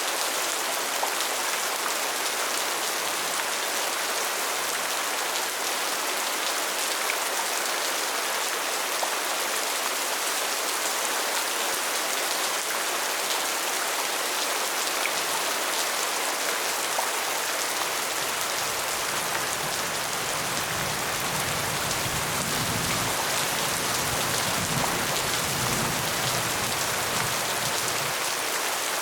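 Steady rain falling, an even hiss of many drops. A low rumble joins it in the second half and fades near the end.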